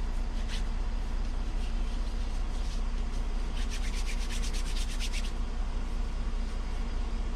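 Hands rubbing hand sanitizer together, with a quick run of rubbing strokes about halfway through, over a steady low engine hum.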